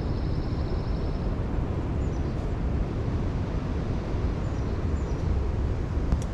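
Wind buffeting the microphone outdoors: a steady low rumble. A few faint high chirps sound through it about two and five seconds in.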